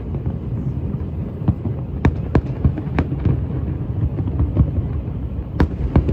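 Fireworks going off: irregular sharp bangs and crackles over a steady low rumble.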